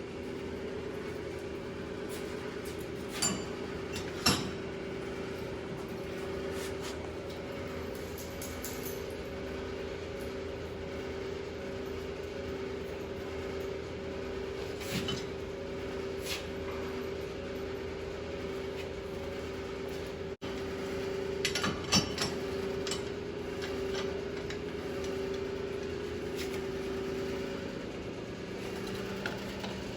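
Steady hum of a running shop machine, with a few sharp metallic clinks and knocks of tools being handled, the loudest about four seconds in and around twenty-two seconds. Near the end the hum stops and a lower hum takes over.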